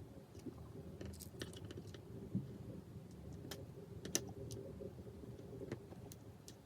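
Faint, scattered small clicks and taps of tiny plastic and metal parts and tools being handled while an iPhone 5s is put back together, with a low steady hum beneath.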